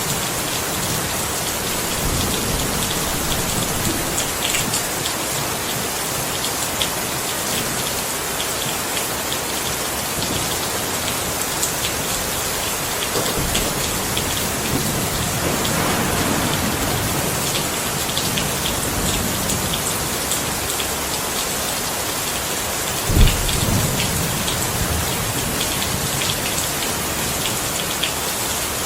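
Steady rain falling on a surface, with the individual drops ticking through it. A soft low rumble of thunder swells in the middle, and a short, sharp thunderclap comes later and is the loudest sound.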